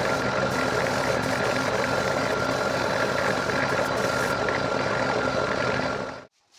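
Steady motor noise with a hiss and a constant whine, as of an air compressor running while a spray gun lays on primer. It cuts off suddenly near the end.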